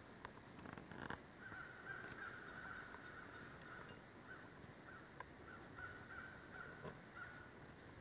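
Faint wild bird calls: a harsh, broken series of calls lasting several seconds, with thin high chips repeating about every half second and a few faint taps.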